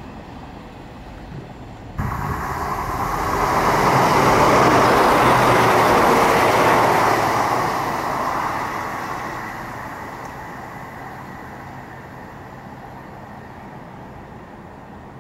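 Diesel passenger train running past, a broad rumble that swells to its loudest about four to seven seconds in and then fades away.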